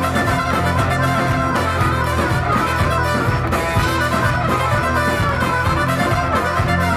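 A live rock band playing an instrumental passage of a song, with a steady bass line and drums under several instruments and no singing.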